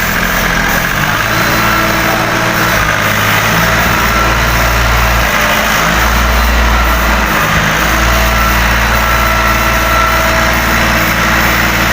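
A machine running steadily with a low hum and a faint whine, its low tones shifting now and then.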